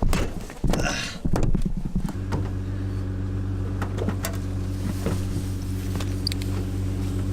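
A few knocks and rustles, then about two seconds in a vehicle engine comes on and runs at a steady idle.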